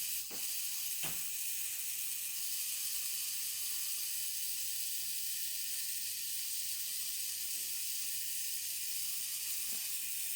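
Small toy DC gear motors of a line-follower car's drive wheels running together with a steady high whirr, with a few light clicks about a second in and near the end.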